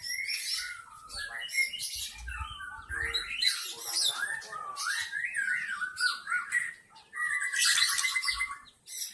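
White-rumped shama singing: a run of varied whistled phrases gliding up and down, with a rapid trill for about a second near the end.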